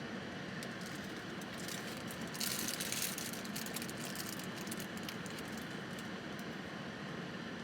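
Close-miked eating sounds: faint chewing and clicks of handling food, with a brief louder rustling burst about two and a half seconds in.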